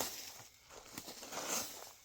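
Dry leaves and forest-floor litter rustling and scraping in a series of swishes about half a second apart.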